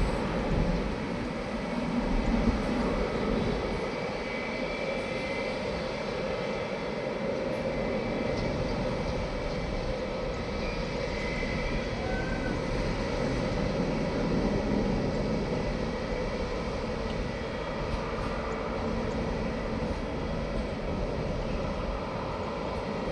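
Airbus A321-211 jet engines running with a steady, continuous sound, swelling slightly a couple of times.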